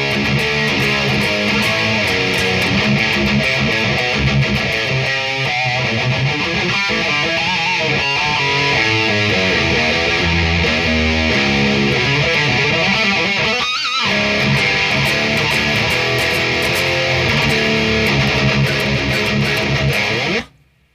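Electric guitar played through a Knuckle Sandwich overdrive pedal, distorted and heavy, chugging riffs and strummed chords. There is a brief break with a rising sweep about fourteen seconds in, and the playing cuts off suddenly just before the end.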